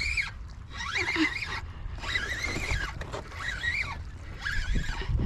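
A bird calling over and over: wavering, high cries of about half a second to a second each, roughly one a second, five in all, over a steady low rumble.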